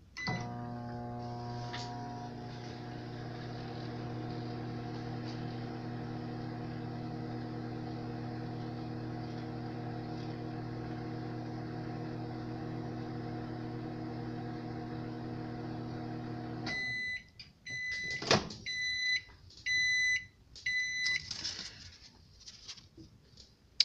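Microwave oven running with a steady hum. About seventeen seconds in the hum stops, and the oven beeps several times as the cooking cycle ends, with a click among the beeps.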